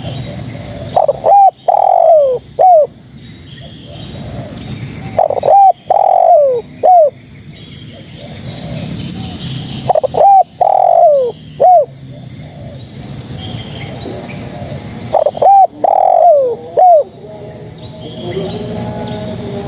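Female spotted dove cooing. A phrase of three or four falling coos repeats four times, about every five seconds, over a steady background hiss.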